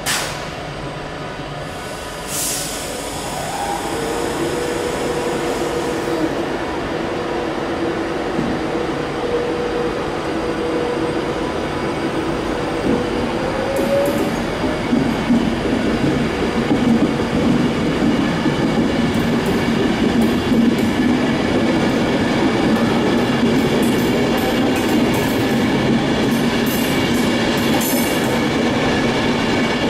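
Avanti West Coast Class 390 Pendolino electric train moving past along the platform. A steady whine that glides up in pitch about fourteen seconds in sits over wheel-on-rail rumble, which grows louder as the coaches go by.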